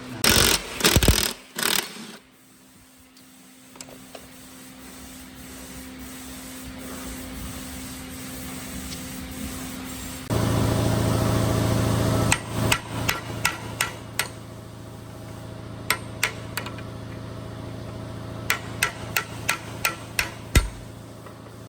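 Workshop tool sounds on metal: a loud clatter in the first two seconds, a small motor running steadily for about two seconds near the middle, then a long series of sharp, irregular taps like light hammering.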